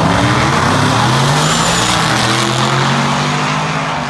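Race car engine running hard at high revs, loud and steady, then easing off slightly in level toward the end as the car goes by.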